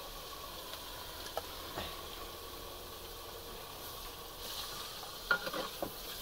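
Onions frying in oil in a pot on a wood-fired clay stove, a steady sizzle. Near the end the sizzle gets brighter, with a few knocks and scrapes of a spoon as spice paste is tipped into the pan.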